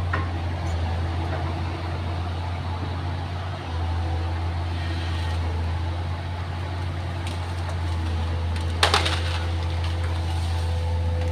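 Excavator diesel engine running steadily, with a sharp crack of wood splintering about nine seconds in.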